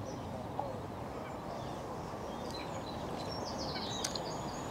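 Small birds chirping and singing in short repeated phrases over a steady low background noise.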